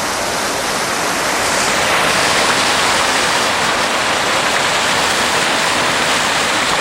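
Steady loud rushing noise with no clear beat or pitch, swelling slightly about two seconds in.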